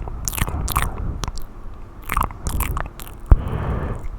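ASMR mouth sounds close to a very sensitive microphone: irregular wet clicks and pops of the lips and tongue, the sharpest a little over three seconds in, followed by a soft breathy hiss.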